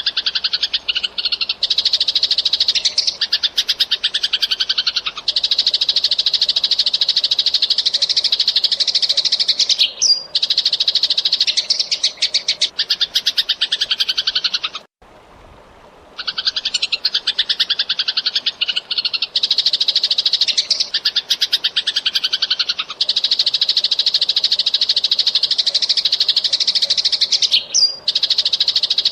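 Eurasian tree sparrow chirping in fast, dense chattering runs. The sound breaks off for about a second halfway through, then the same sequence starts over, as a looped recording does.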